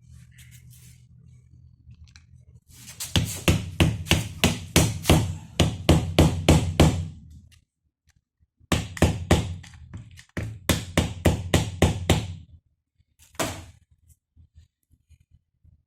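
Repeated hammer blows on a stuck part of a GAZelle steering gearbox being knocked out, about three a second, in two runs of a dozen or so with a short pause between, then one last blow.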